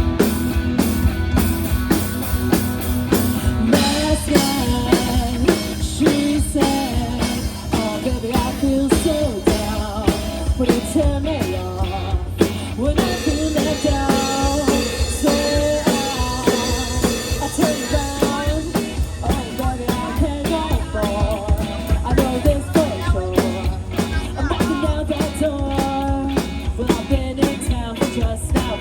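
Live rock band playing a song: drum kit beating steadily under electric guitar and bass, with a wavering lead melody coming in about four seconds in.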